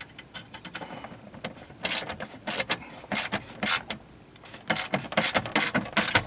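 Socket ratchet clicking in two short runs of quick strokes as a small bolt is tightened, with a brief pause between the runs.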